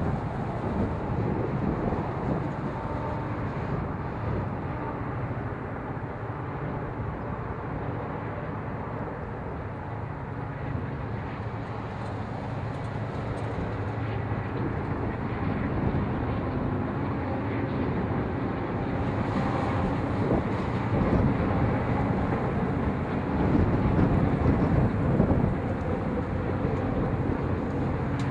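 A train running by with a steady low rumble that grows louder toward the end.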